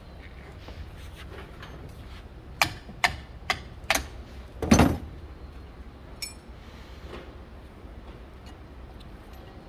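A run of five sharp knocks about half a second apart, the last one heavier and longer, over a steady low hum.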